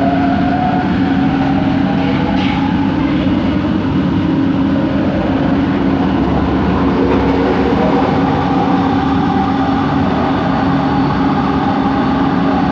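Bombardier Innovia ART 200 train in motion, heard from inside the car: a steady low hum from its linear induction motor over continuous running rumble.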